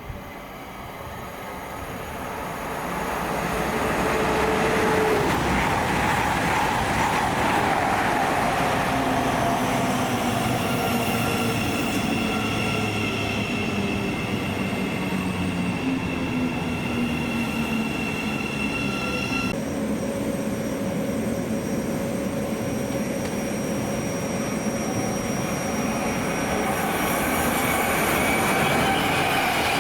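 Fast passenger train passing through the station at speed: the sound builds over the first few seconds into a long, steady rush of wheels on rail with whining tones that fall in pitch as it goes by. A set of high tones cuts off suddenly about two-thirds of the way through.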